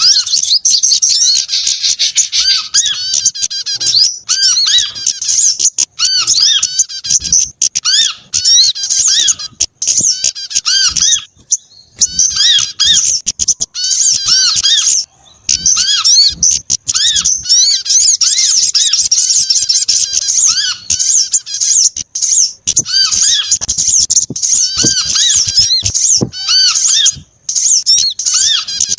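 Bird-lure recording of several small songbirds calling together: dense, high-pitched chirps and short twittering notes overlapping almost without a break, cut off abruptly by a few brief gaps.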